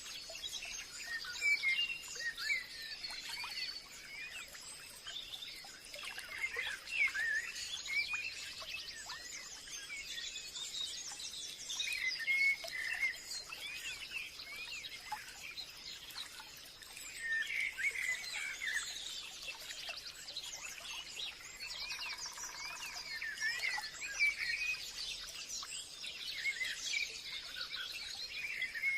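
A chorus of several birds chirping and calling continuously, in busy clusters every few seconds, over a thin steady high-pitched tone.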